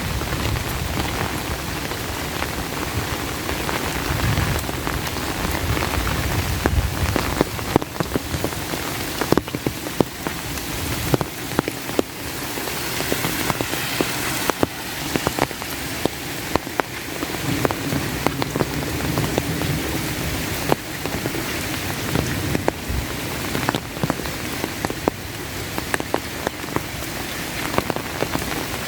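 Steady rain falling, with many sharp, irregular taps of single drops striking close by.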